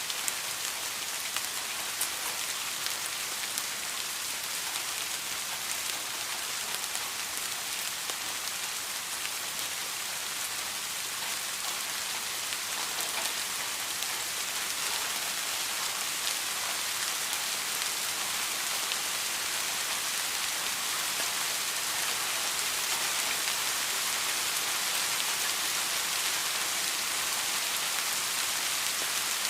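Steady rain falling, an even hiss with scattered drop ticks, getting slightly louder toward the end.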